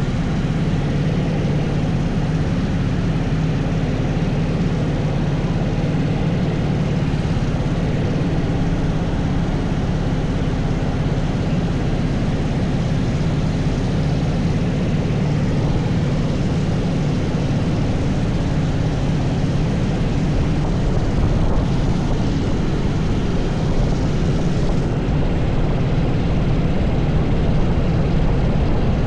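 80cc go-kart engine running continuously at a fairly steady pitch under load.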